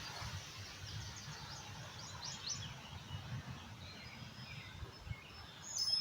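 Steady rush of flooded creek and river water, with wind buffeting the microphone in low gusts. Small birds chirp briefly about two seconds in and again near the end.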